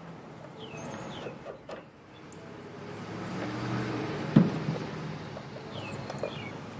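A vehicle engine idling steadily, with a sharp click about four and a half seconds in and birds chirping faintly.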